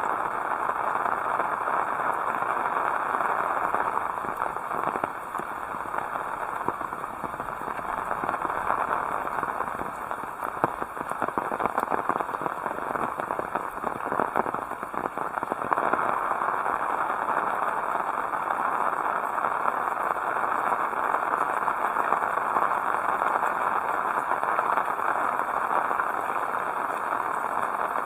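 Heavy rain falling steadily: a dense hiss of many close drops with a fine crackle. It eases a little partway through and comes back full about two-thirds of the way in.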